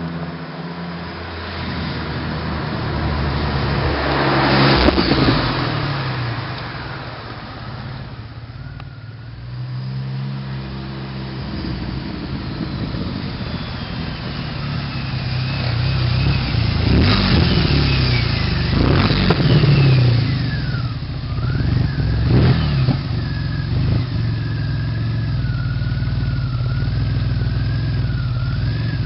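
Turbocharged DeLorean's PRV V6 running through a custom stainless steel exhaust, idling between several sharp throttle blips, most of them in the second half. A high whistle falls in pitch and then wavers over the engine near the end.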